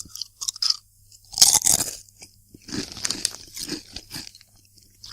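Close-miked crunching and chewing of Walkers Sunbites multigrain crisps: a loud crunch about a second and a half in, then a run of softer chews.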